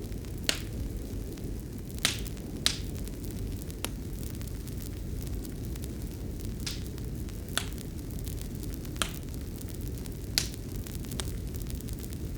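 Fire crackling in a fireplace: irregular sharp pops and snaps, several in a few seconds, over a steady low noise of the burn.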